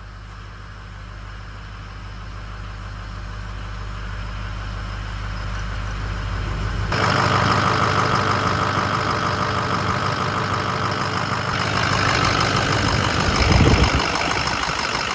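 Freshly rebuilt Ford Powerstroke diesel idling on its first run, slowly growing louder. About seven seconds in the sound jumps suddenly louder and fuller, and a short low rumble comes near the end.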